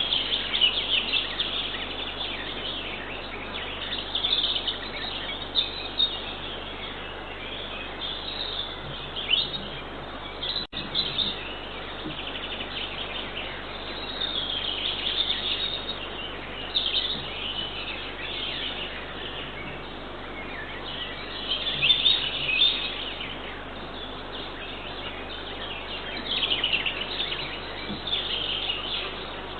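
Wild songbirds singing and chirping in short repeated phrases over a steady hiss and low hum from the nest camera's microphone, the sound thin with the top end cut off. A brief dropout about eleven seconds in.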